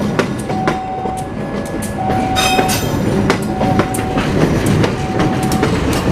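Train running on the track, with a steady rumble and irregular wheel clicks over rail joints. A short tone sounds over it, repeating about every one and a half seconds.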